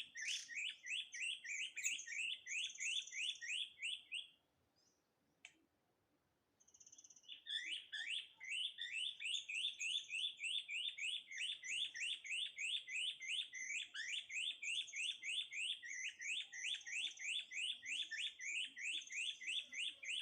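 Bird call repeated in a fast, even series of short rising chirps, about five a second, broken by a silent gap of about three seconds a little after four seconds in.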